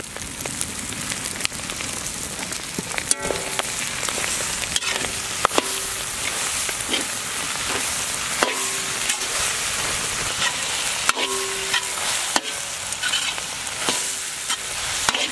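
Freshly added sliced tomatoes sizzling in hot oil with fried shallots and green chillies in a large kadai. A ladle stirs the mix, scraping and clicking against the pan every second or two.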